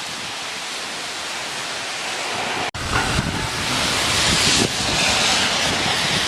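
Tropical-storm wind gusting, a loud steady rush of air. It breaks off for an instant about halfway, then comes back louder, with low buffeting on the microphone.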